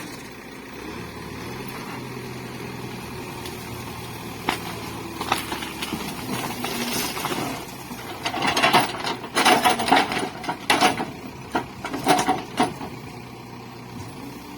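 Backhoe loader's diesel engine running steadily, then a run of loud, sharp knocks over several seconds in the second half.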